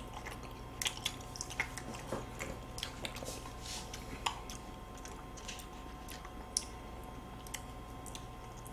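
Soft, wet chewing and lip-smacking of ice cream sandwiches: chocolate wafer and ice cream being bitten and chewed, with scattered small clicks and smacks that are busiest in the first few seconds and thin out after.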